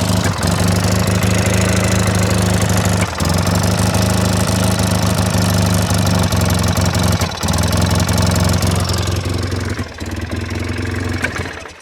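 Engine running steadily, just started on the choke after a new valve cover was fitted, with a brief stumble three times. It dies away and stops near the end.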